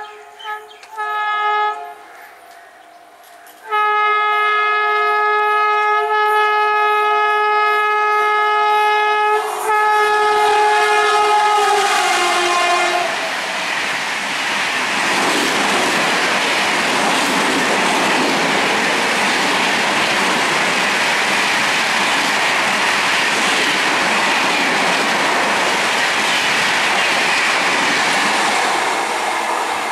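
Electric locomotive's air horn sounding two short blasts, then one long blast of about eight seconds that drops in pitch near its end as the train passes. Then the loud, steady rush and clatter of the express's coaches passing at speed.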